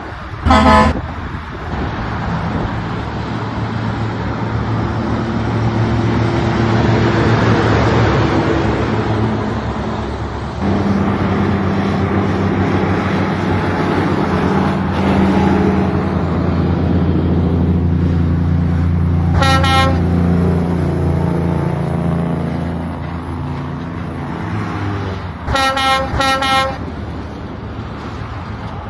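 Heavy truck engine running steadily, its pitch changing about a third of the way in, with short horn honks: one at the start, one about two-thirds in, and a quick run of three toots near the end.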